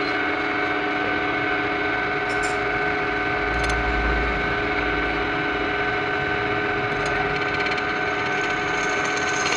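A workshop machine's motor running with a steady hum, with a few light metallic clicks and a brief low rumble near the middle.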